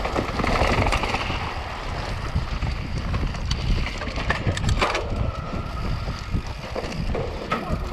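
Wind buffeting the microphone of a camera riding along on a mountain bike at speed. Under the wind the bike and its tyres rumble and rattle over rough ground, with scattered sharp clicks and clatters.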